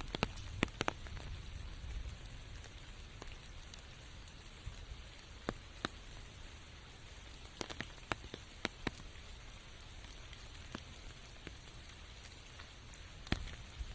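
Steady rain falling in a forest, with irregular sharp taps of drops striking close by, a few louder ones near the start, about eight seconds in and near the end.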